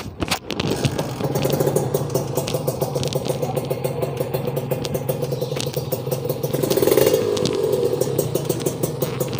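A Kawasaki Serpico's 150 cc two-stroke single is kick-started and catches almost at once. It then runs at a steady idle, with a short rev about seven seconds in.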